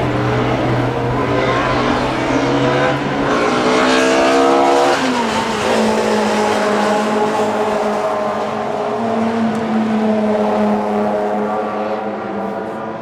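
Classic DTM touring race cars' engines at racing speed: the revs climb for about five seconds, drop sharply, then hold a steady, loud drone.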